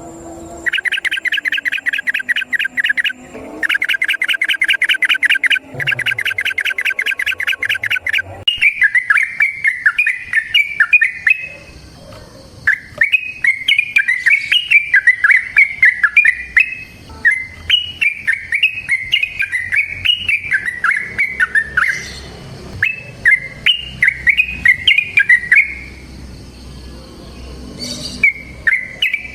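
Yellow-vented bulbul (trucukan) singing: two stretches of fast, rattling trills in the first eight seconds, then long runs of quick, bubbly up-and-down whistled phrases.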